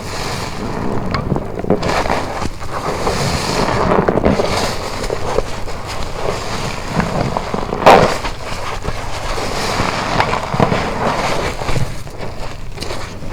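Wet car wash sponge with cut grooves being squeezed and rinsed: a steady crackly squelching of soaked foam and water, with one louder squelch about eight seconds in.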